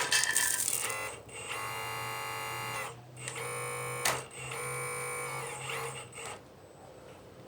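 Small electric motor of a radio-controlled scale excavator's hydraulic system whining in three bursts of one to two seconds each, starting and stopping as the controls are worked.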